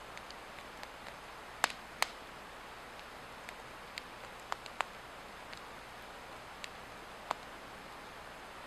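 A burning Swedish torch log crackling, with irregular sharp pops and snaps of the wood (the loudest two about a second and a half and two seconds in), over a steady hiss.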